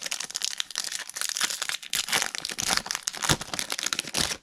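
Foil wrapper of a Topps Holiday baseball card pack crinkling and tearing as it is ripped open and crumpled, a dense crackle that stops suddenly near the end.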